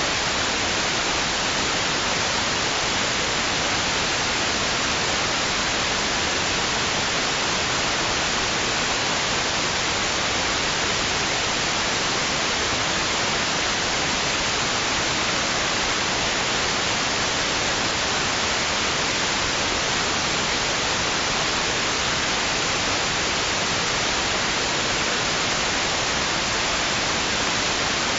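Steady white noise: an even, unchanging hiss with no rise and fall, played continuously as a sleep aid for babies.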